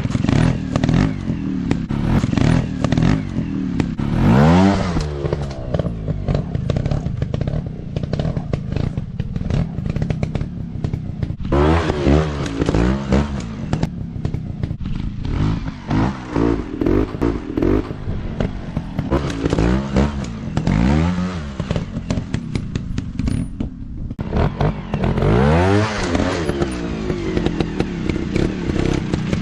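Off-road dirt bike engines revving up and falling back again and again as the riders work the throttle, over many sharp clicks and knocks.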